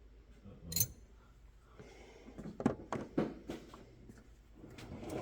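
Hand tools being handled and moved about while searching for a wrench: scattered light clicks and knocks, with a sharper knock near the end.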